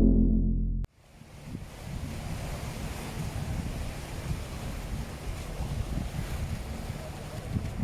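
A loud, fading musical tone cuts off abruptly about a second in. It is followed by gusty wind buffeting the microphone, with the wash of the sea behind it.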